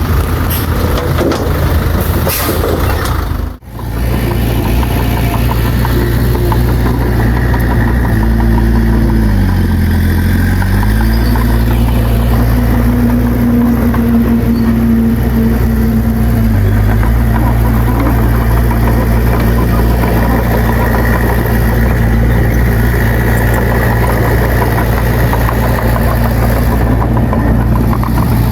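Bulldozer's diesel engine running loud and steady. Its pitch sags and recovers about ten seconds in, and dips again briefly later, as the engine takes load. The sound cuts out for a split second early on.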